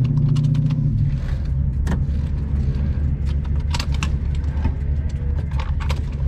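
Twin-turbo engine of a 1962 Chevy Nova wagon drag car running at low speed after a pass, a steady low drone whose pitch drops about a second in. Light clicks and rattles sound over it throughout.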